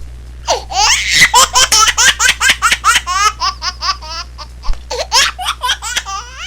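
High-pitched laughter: a fast run of short ha-ha bursts, several a second, over a steady low hum.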